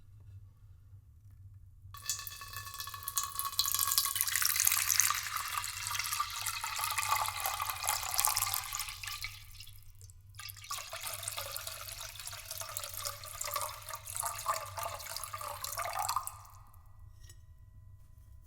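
Water being poured into a vessel in two long pours, with a brief pause between them, over a faint steady low hum.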